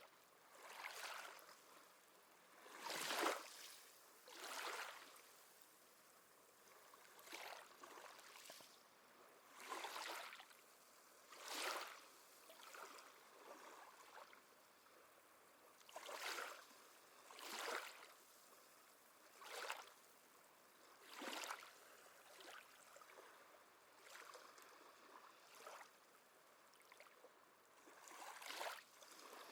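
Small sea waves lapping faintly at the shore, a soft wash swelling and fading about every one to two seconds in an uneven rhythm.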